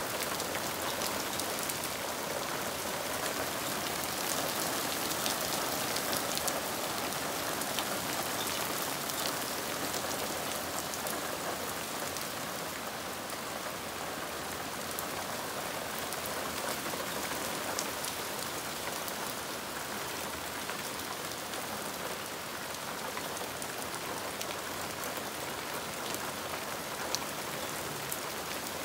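Hard rain falling steadily on a garden's lawn and leafy trees: a dense, even hiss with many small drop ticks through it.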